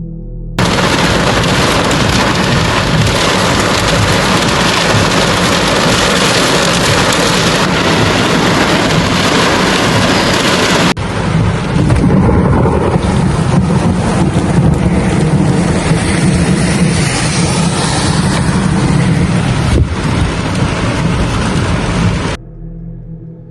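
Heavy thunderstorm rain, a loud steady hiss with low rumbling thunder beneath it. About halfway through it changes abruptly to another stretch of downpour with a heavier rumble, and near the end it cuts off suddenly.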